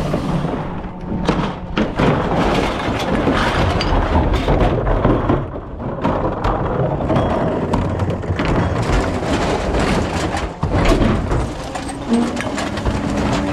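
Rear-loader recycling truck at work: repeated clattering thumps and knocks from the hopper and packer over the low steady running of the truck.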